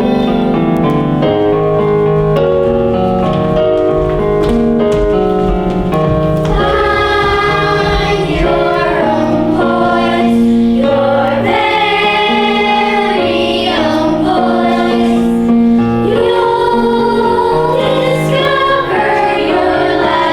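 Musical accompaniment with piano, then a choir singing along with it from about six seconds in.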